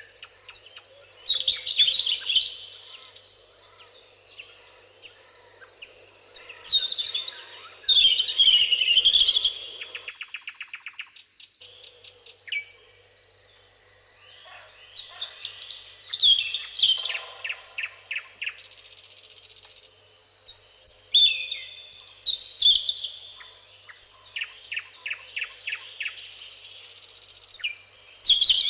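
Several songbirds singing in turn: warbling phrases with rapid trills and quick series of ticks, some phrases loud. A thin steady high tone, like an insect's buzz, runs under them.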